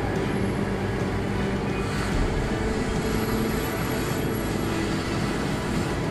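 Steady rumble of a running vehicle engine mixed with street noise, unchanging throughout.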